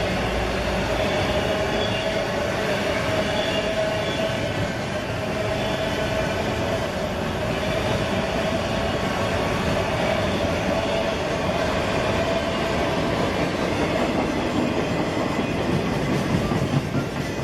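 Train running by: a steady rumble of wheels on the rails, with a sustained wavering whine above it.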